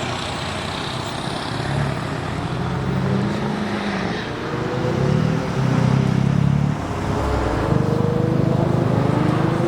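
A car engine running close by, getting louder about five seconds in, its pitch climbing slowly as it revs up toward the end.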